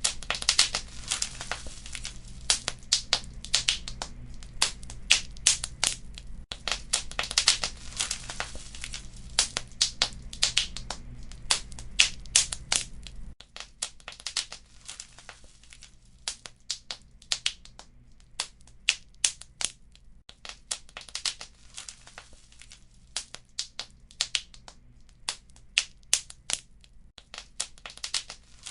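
Wood fire in a fireplace crackling, with many sharp pops and snaps at an irregular pace. A low steady rumble under it cuts off about halfway through, after which the crackles are sparser and softer.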